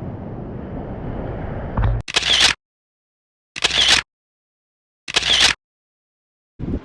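Wind and surf noise on the microphone for the first two seconds. Then three camera-shutter clicks about a second and a half apart, each followed by dead silence.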